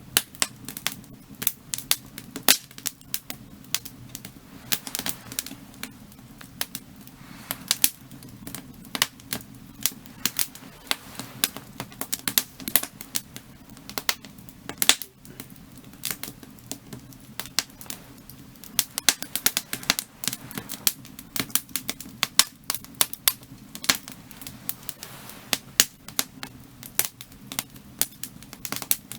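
Firewood burning in a fire, crackling with a dense run of sharp, irregular pops and snaps, a few louder than the rest, one of them about halfway through.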